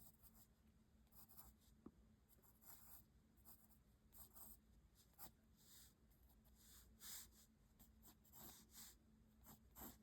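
Pencil scratching on paper in many short, irregular strokes, faint and close.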